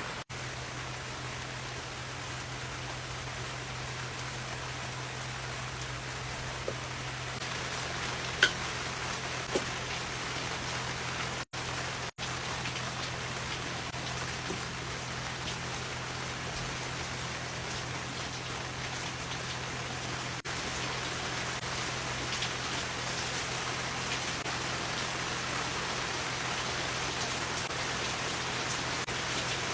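Steady rain falling, with a couple of sharper single taps about eight and ten seconds in, over a low steady hum.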